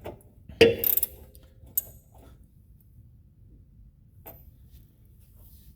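A few metallic clanks and clicks from tools and parts being handled. The loudest is a clank with a short ring just under a second in, followed by lighter clicks.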